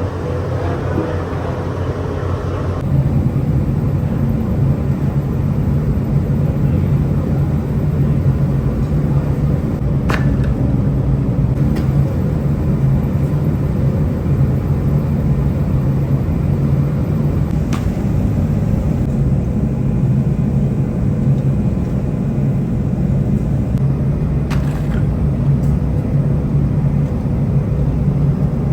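Steady low rumble of heavy factory machinery running, with a few sharp clicks or knocks scattered through; the sound shifts to a deeper, louder hum about three seconds in.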